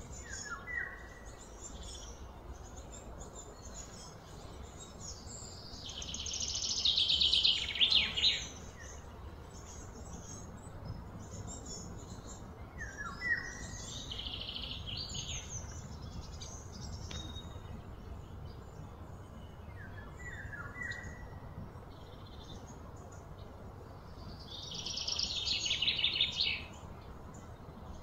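Birds calling: two loud, rapid high trills of about two seconds each, one about a quarter of the way in and one near the end, with a few short falling chirps between them. A low steady background hum runs underneath.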